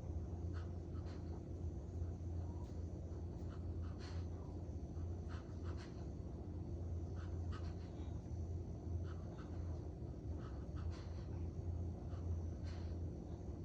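Border collie snoring loudly in its sleep: a low, rumbling breath noise that swells and eases again and again, with scattered faint clicks.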